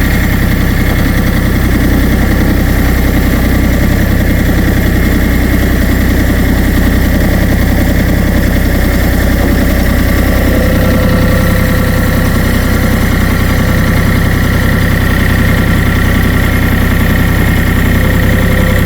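Kioti 3520HST compact tractor's diesel engine running steadily during snow removal.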